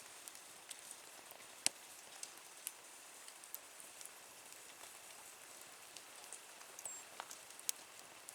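Small wood fire crackling in a camping wood stove: irregular sharp pops and ticks over a faint steady hiss, the loudest pop about a second and a half in.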